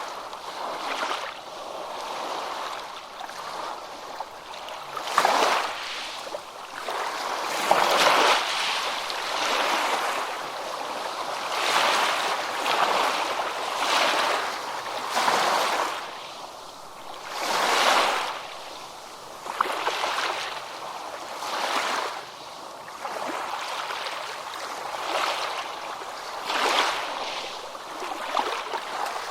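Ocean waves breaking and washing on a beach, a steady rush of surf that swells and falls every second or two, with louder breakers now and then.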